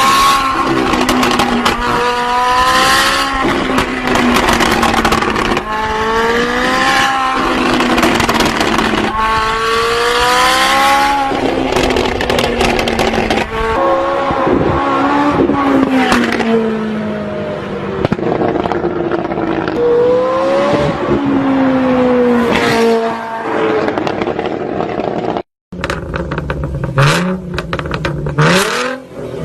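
Loud car exhaust as an engine accelerates, its pitch rising and then dropping several times as it runs through the gears. About 25 seconds in it cuts out briefly, and another engine revs up in short rises.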